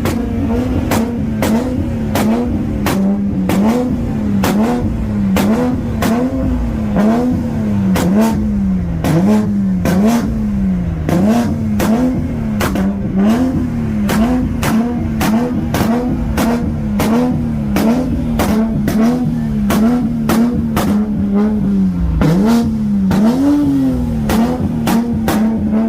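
Toyota Supra MK5's tuned inline-six engine revved repeatedly through a loud exhaust, the pitch dipping and snapping back up about once a second, with a rapid stream of sharp exhaust pops and crackles throughout.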